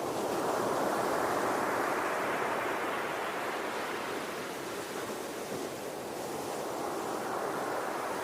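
Ocean waves breaking and washing on a shore: a surge builds about a second in, draws back, and a fresh one starts to rise near the end.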